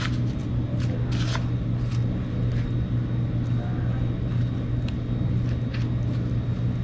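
A steady low mechanical hum, such as a motor or fan running, with a few light clicks and taps now and then.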